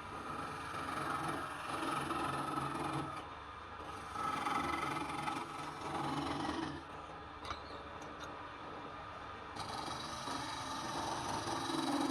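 Wood lathe turning palm wood, a tool scraping against the spinning piece in stretches of two to three seconds, with a sharp click about seven seconds in.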